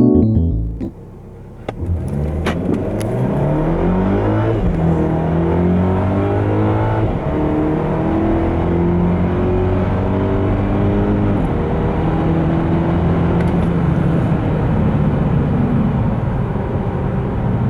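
Volvo S90 T6 Polestar's turbocharged and supercharged 2.0-litre four-cylinder engine at full throttle, accelerating hard from a standstill. The engine note climbs in pitch through each gear, dropping sharply at three upshifts of the automatic gearbox.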